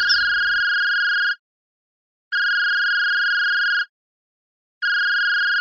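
Electronic beep tone sounding three times, each a steady high beep of about a second and a half, with a second of silence between: a ringing-tone-like sound effect.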